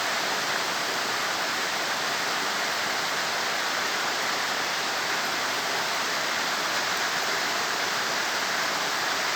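Steady rain falling, a loud, even hiss that does not let up.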